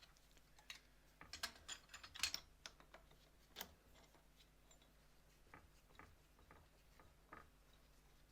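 Light clicks and taps of small objects being handled: a quick run of them in the first few seconds, the sharpest a little past two seconds in, then a few soft scattered clicks.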